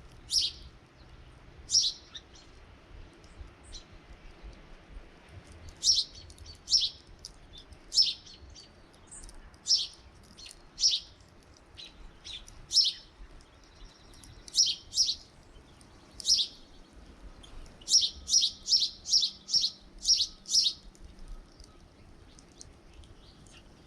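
Small songbirds at a feeder giving short, high chirps, spaced a second or so apart, then a quick run of about eight chirps in a row about three-quarters of the way through.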